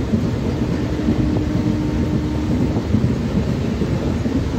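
Steady running rumble of a MEMU electric train at speed, wheels on the rails, heard from inside the coach at an open window with wind on the microphone. A faint steady hum rises above it for about two seconds from about a second in.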